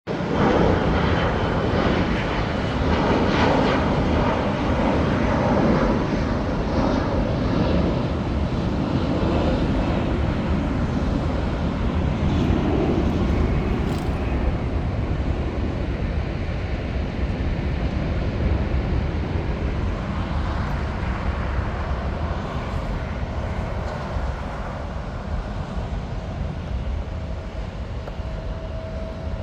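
Jet airliner engines running, a dense roar that is loudest in the first half and slowly fades away.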